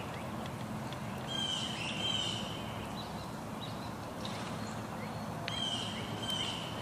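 Birds singing in woodland: a repeated phrase of a held high whistle and quick falling chirps, heard twice, over steady outdoor background noise.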